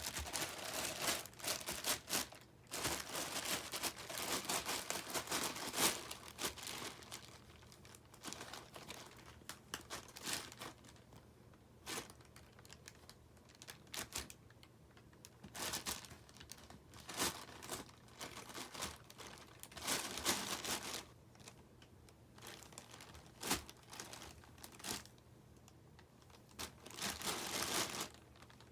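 Plastic wrapper of a wrapped sanitary pad crinkling in irregular spells as a cat paws and bats at it.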